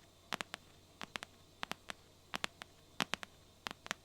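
Fingernails tapping on a box: quick, crisp taps in little clusters of two or three, a cluster about every half second.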